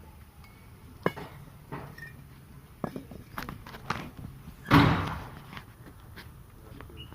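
A string of separate knocks and thunks, then one louder, longer thud about five seconds in that fades away: bricks being handled and set down.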